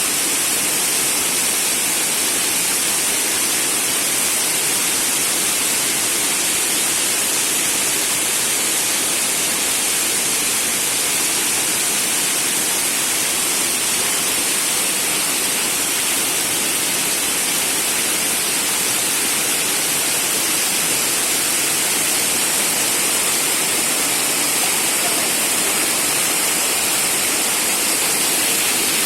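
Shumka waterfall: a mountain waterfall pouring steadily, a loud, unbroken rush of falling water.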